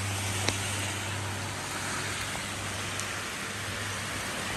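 Steady rain and storm runoff rushing down the street along the curb, with a low steady hum of road traffic underneath.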